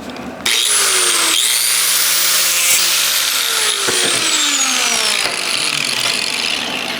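Angle grinder starting up about half a second in and grinding a piece of weld spatter off steel plate, its motor whine rising as it spins up, then falling as it spins down over the last few seconds.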